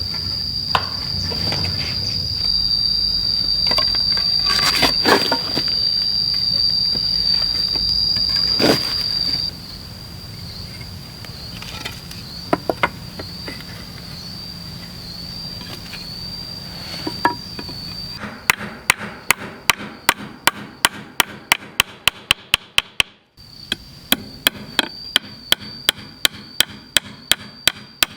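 Insects shrilling on one steady high note, with a few scattered knocks on wood. In the second half comes a quick, even run of sharp strikes on wood, about two to three a second, broken once by a short gap.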